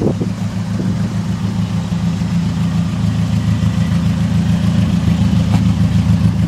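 Truck engine idling steadily, a low even drone.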